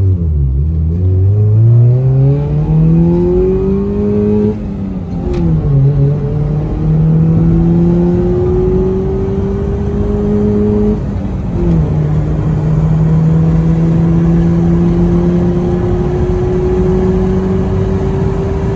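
2003 Subaru Forester's 2.0-litre naturally aspirated four-cylinder boxer engine accelerating hard from a standstill. Its note rises steeply, drops sharply at an upshift about four and a half seconds in, and rises again. It drops once more at the shift from second into third, about eleven and a half seconds in, then climbs slowly.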